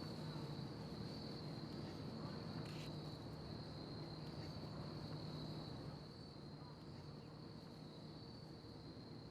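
A steady high-pitched whine over a low hum, getting a little quieter about six seconds in.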